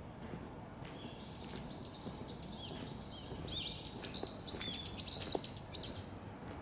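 A songbird singing a rapid run of high, arching chirps that starts about a second in and lasts some five seconds, loudest past the middle, over a steady low background hum.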